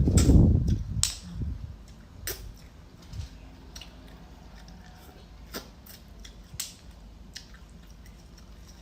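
Close-up eating sounds from a seafood meal: a loud rustle in the first second, then chewing and scattered sharp clicks and cracks of shrimp and shellfish shells being handled and bitten.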